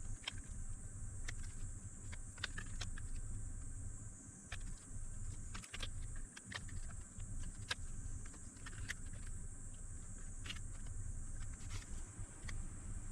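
Scattered light clicks and taps of small tools and parts being handled at a workbench, at irregular intervals, over a steady low hum and a high hiss.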